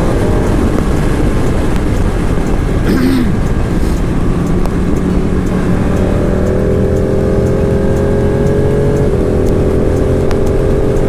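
Motorcycle riding at road speed: an engine running steadily under heavy wind rumble on the rider's microphone.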